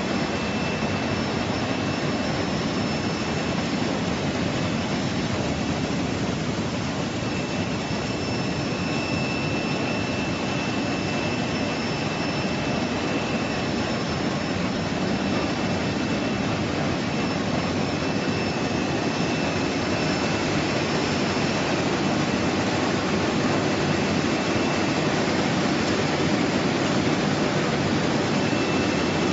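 Industrial bubble washing machine for fruit and vegetables running: a steady rushing noise of machinery and agitated water, with a faint high whine that comes and goes.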